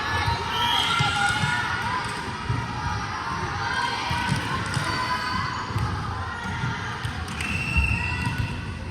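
Volleyball gym sounds: sneakers squeaking on the court floor, the thuds of the ball and feet, and background voices. A short high steady tone sounds near the end.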